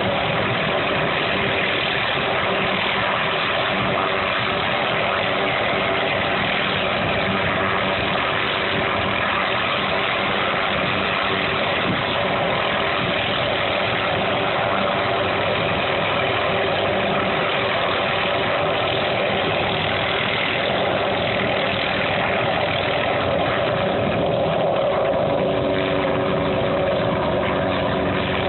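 Helicopter engine and rotor running steadily, a constant loud drone with no clear change in pitch.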